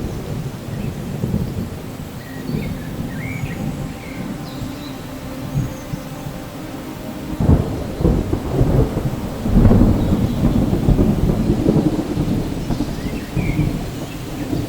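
Steady rain with rolling thunder; the thunder swells about halfway through and rumbles on loudly, peaking shortly after.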